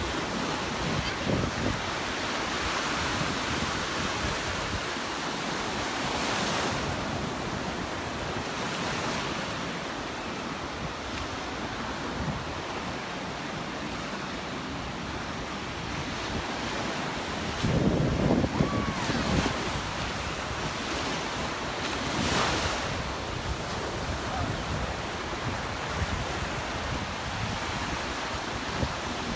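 Gulf of Mexico surf breaking and washing up the beach in a steady hiss, with a few louder swells. Wind buffets the microphone, most strongly about two-thirds of the way through.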